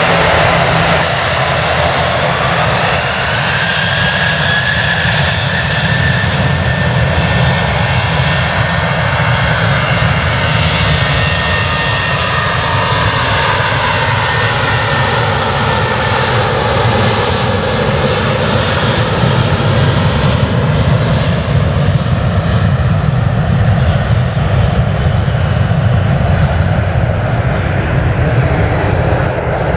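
Jet airliner departing at take-off power: loud, steady engine noise, with tones that sweep up and down in pitch as it passes.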